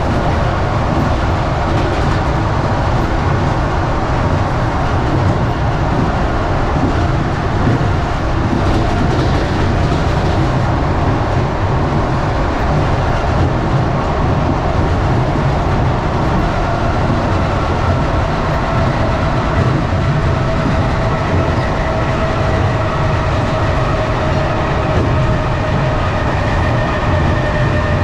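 Passenger train running along the track, heard from inside a carriage: a steady low rumble and rail noise from the wheels. About two-thirds of the way through, a faint steady whine joins in.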